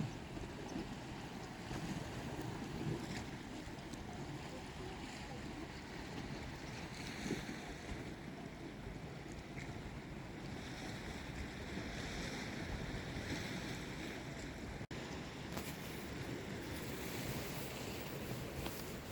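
Sea waves washing against a rocky shore, mixed with wind buffeting the microphone, as a steady rushing noise. The sound cuts out for an instant about fifteen seconds in.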